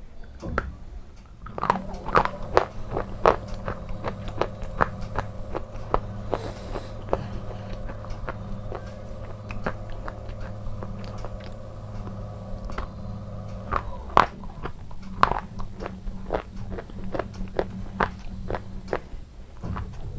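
Close-up biting and chewing of a piece of hard white bar: many sharp, irregular crunches, loudest about two seconds in and again near fourteen seconds, over a steady low hum.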